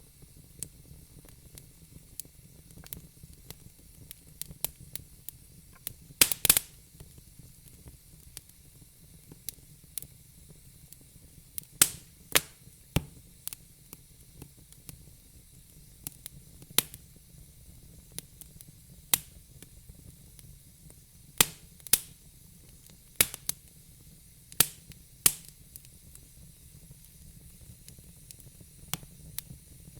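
Wood fire crackling: sharp pops and snaps at irregular intervals over a faint steady hiss. The loudest pops come in small clusters about six seconds in, around twelve seconds, and again in the latter part.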